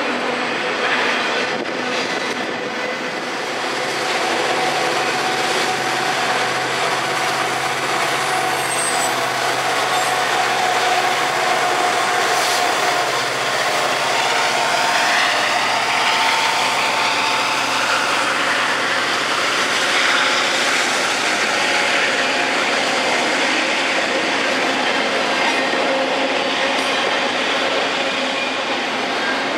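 Freight train rolling past on the rails: a continuous, loud rumble and clatter of wheels and cars.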